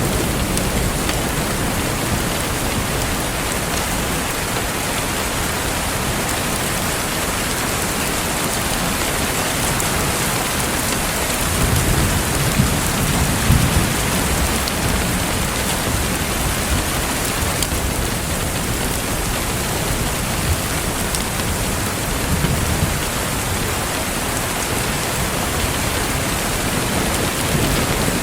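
Steady heavy rain falling on a surface, with low rumbles of thunder swelling about midway and again later.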